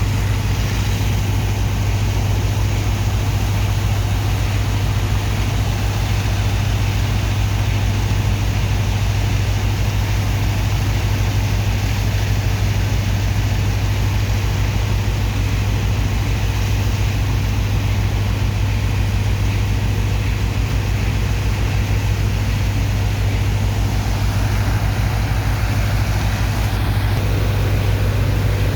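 Heavy engine of a sand-dredging pump machine running at a steady speed: a constant low drone with an even hiss above it.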